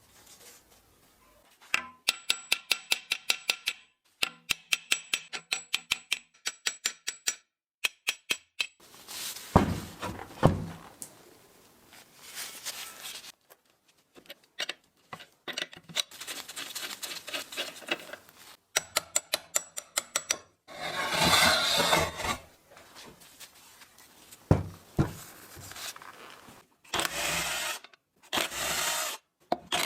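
Hand-tool work on a metal bench drill press being taken apart. There are runs of rapid, ringing metal clicks at about six a second, two heavy knocks about ten seconds in, and later bursts of scraping.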